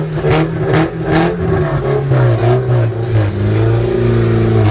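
Car engine running loud and steady, its pitch dipping briefly partway through.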